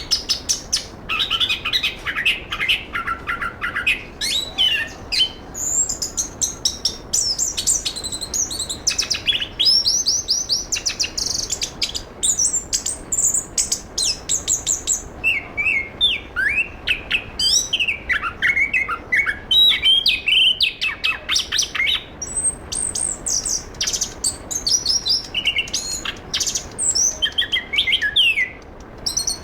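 Chestnut-capped thrush (anis kembang) singing without pause: a fast, varied song of rapid trills, quick rising and falling whistles and runs of repeated notes.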